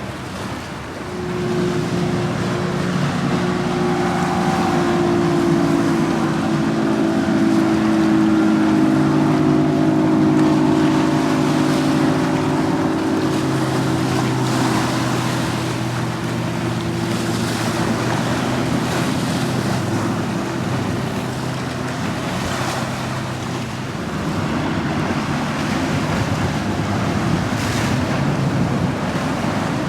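Motorboat engine droning as a boat runs past through the inlet, its pitch dropping partway through as it goes by, over wind on the microphone and breaking waves.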